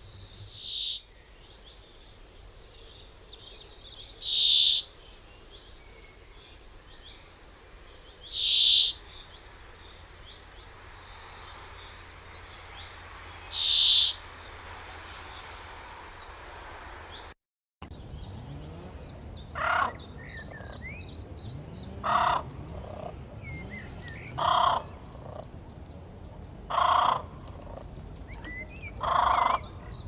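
Wild birds calling: a short high call repeated every four seconds or so, then, after a brief break, a different, lower and harsher call repeated about every two and a half seconds.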